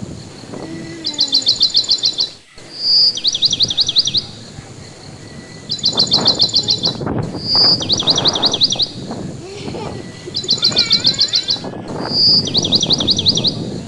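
A songbird singing the same song over and over, about every two seconds: a fast, even trill of about ten high notes, every other song opening with a short clear whistle. A fainter warbling call comes in near the end, over a low rushing background of wind.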